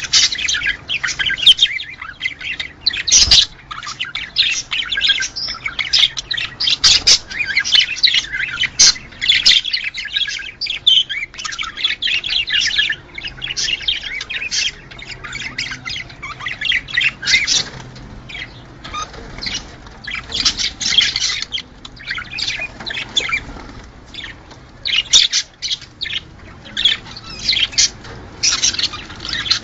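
A flock of budgerigars chattering: dense, overlapping chirps, warbles and squawks that never let up.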